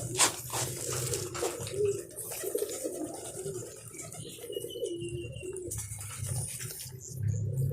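Domestic pigeons cooing in low, wavering calls, with a few sharp taps in the first second or so and a low hum coming and going underneath.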